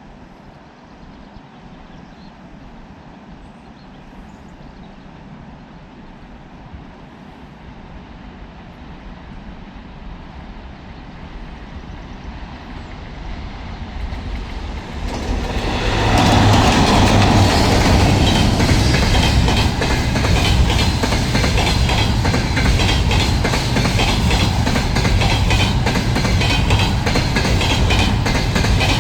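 VL80s electric locomotive with a container train approaching, growing steadily louder, then from about 16 s in passing close with loud, rapid wheel clatter over the rail bridge.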